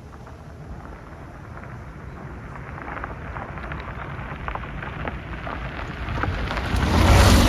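Rain falling with a low thunder rumble, growing steadily louder and building to a loud crash of thunder near the end.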